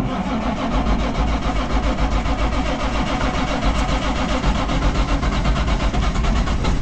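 Diesel semi truck engine idling steadily right after being started, with a fast even firing pulse and a strong low rumble.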